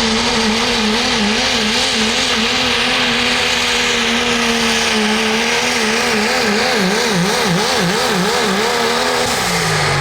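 A pulling vehicle's engine runs at full throttle under load, holding a steady high pitch. In the second half the pitch wavers rapidly up and down, and about nine seconds in it falls away as the engine winds down at the end of the pull.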